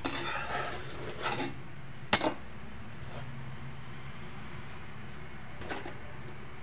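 A roasted bhakri being lifted off an iron tava: one sharp metallic clink about two seconds in and a fainter knock near the end, over a steady low hum.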